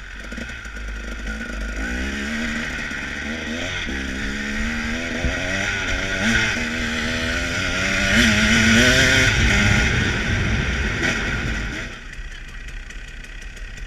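Motorcycle engine running and revving, its pitch rising and falling repeatedly, loudest about eight to ten seconds in before it drops away near the end.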